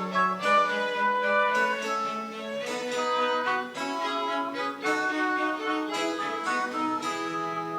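French Baroque chamber music played live: a bowed string instrument carries a quick melody of short notes over a low sustained bass line and a plucked string accompaniment.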